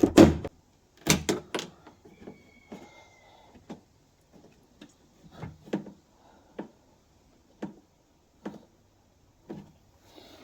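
A series of separate clicks and knocks of tools and metal parts, louder in the first two seconds and then about one a second, with a brief faint whine about two seconds in.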